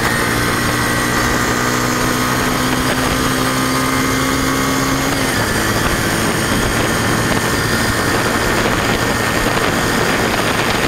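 Yamaha SR250's single-cylinder four-stroke engine running steadily under way, with wind rushing over the microphone. The engine's even note fades under the wind noise about halfway through.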